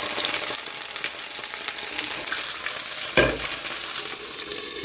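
Garlic and ginger paste sizzling and crackling in hot oil in a frying pan while a silicone spatula stirs it. A single sharp knock with a low thud about three seconds in.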